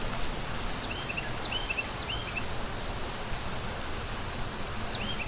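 A steady high-pitched insect drone, like crickets or cicadas, over a constant outdoor hiss. A bird gives short chirps, three in the first half and two more near the end.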